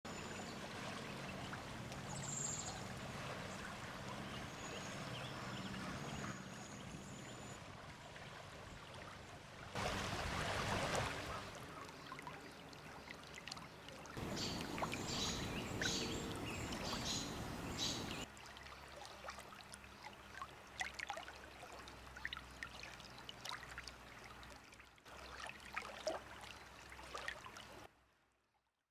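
Outdoor ambience of running water, a steady rushing hiss, broken by cuts into several separate recordings. Short high bird calls sound over it, with a quick series of repeated calls in the middle.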